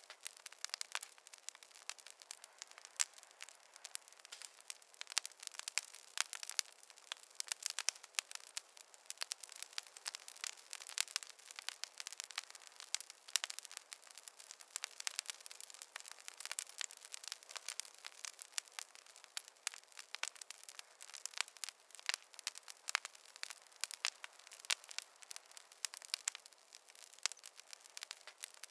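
Wood fire crackling in a fireplace: many irregular sharp pops and snaps of burning logs over a soft hiss, with no low rumble.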